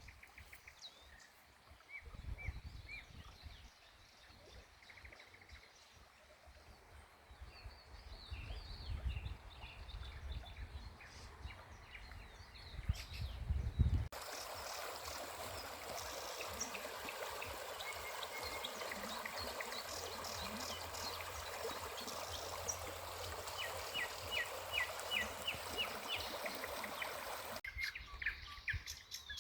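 Birdsong over a low rumble. About halfway through, a sudden cut brings in the steady rush of a flowing river with birds singing over it, and a second cut comes near the end.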